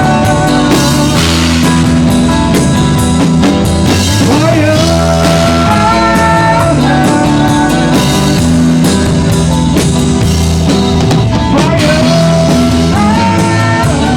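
Live band playing loud rock music, roughly recorded: drums and a steady bass line under a melody that slides up into long held notes.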